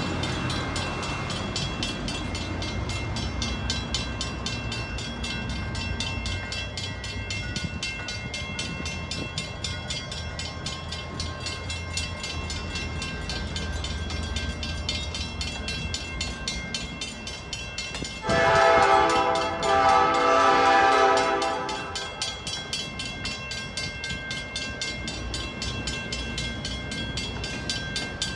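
Passenger coaches rolling over a grade crossing with a steady low rumble, under the constant ringing of the crossing bell. About two-thirds of the way through, the diesel locomotive's multi-chime air horn sounds in two blasts lasting about three seconds together.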